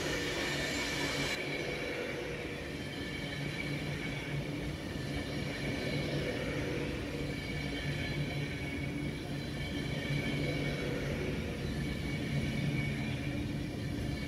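A train at the platform, its engine or traction equipment giving a steady low hum over a rumble. A higher hiss stops about a second and a half in.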